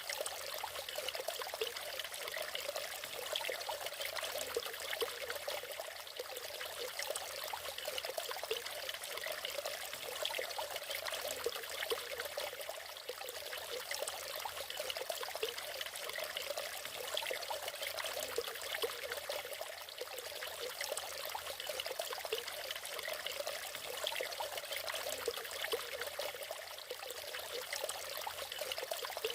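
Water from a waterfall splashing and trickling, a steady, even rush with a fine flickering texture and no single events standing out.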